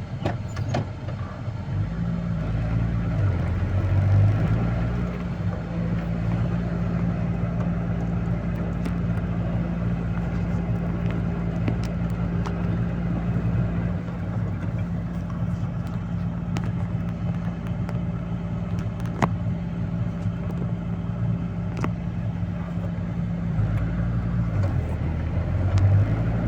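Engine of a heavy work vehicle pulling away and running under steady load. It rises in pitch about two to four seconds in, holds a steady drone, and drops back near the end.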